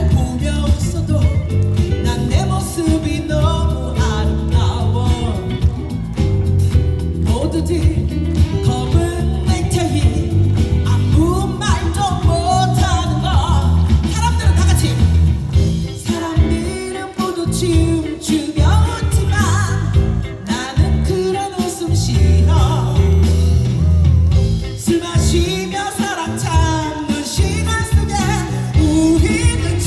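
Live band music with a woman singing over a steady beat, amplified through a PA system.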